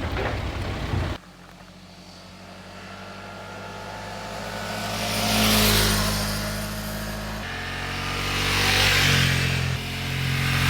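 Motor vehicles on a road: a steady engine note that changes pitch twice, with two swells of engine and tyre noise as vehicles pass, loudest about five and a half and nine seconds in.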